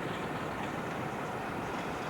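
A steam-hauled train running with a steady rumble and rush of noise, without clear separate beats.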